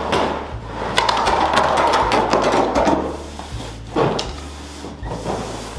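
Carpet being pulled up off the floor and rolled: continuous rustling and scraping with many small sharp clicks and crackles.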